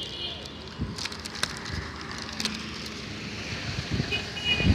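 Heavy rain falling on a wet road, a steady hiss with many small crackling drop impacts. A brief high-pitched beep sounds about four seconds in.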